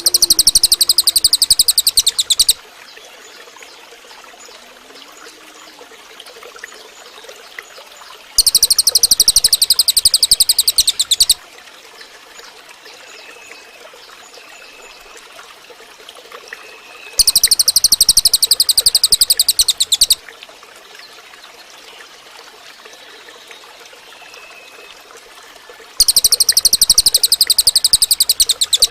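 Cililin bird singing a fast, high trill of rapidly repeated notes, each about three seconds long. The trill comes four times, about every nine seconds, over a faint trickle of water.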